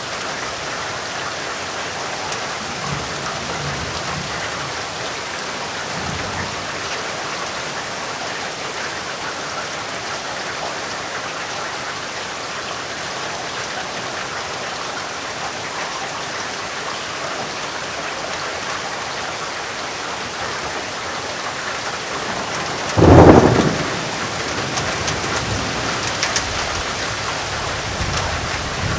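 Steady rain falling, with a single loud, short crack of thunder about 23 seconds in and faint low rumbles of thunder early on.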